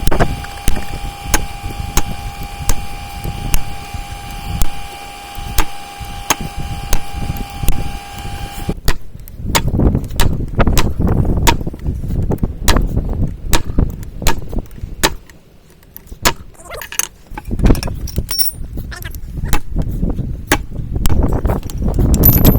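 Hammer blows on hot steel over an anvil, driving a punch through a railroad spike to open the tomahawk's eye. For about the first nine seconds the blows fall evenly, about one and a half a second, over a steady tone. After that they come heavier and more irregular.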